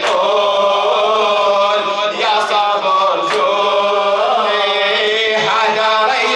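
Male voice chanting a Shia Muharram lament (latmiya) in long, wavering melodic lines.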